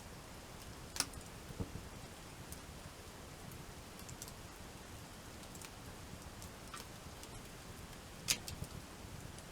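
Wood campfire crackling: scattered sharp pops and ticks, the loudest near the end, over a steady low rumble.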